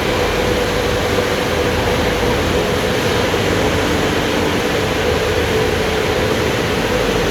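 California Kleindienst EUROWS tunnel car wash running: a steady, loud rushing noise with a constant hum.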